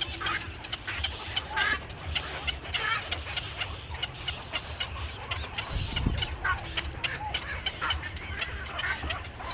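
Many birds calling at once, short chirps and calls overlapping one another without a break, over a low rumble.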